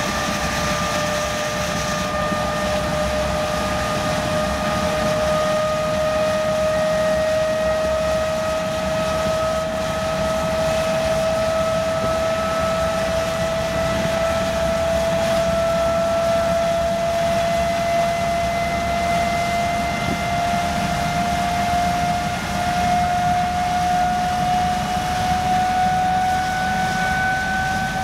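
Engine running hard, with a steady whine that climbs slowly and evenly in pitch all the way through, over a constant rushing noise.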